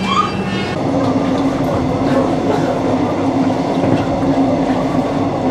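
Passenger train carriage in motion, heard from inside: a steady hum with rattling running noise. A short high squeak comes right at the start.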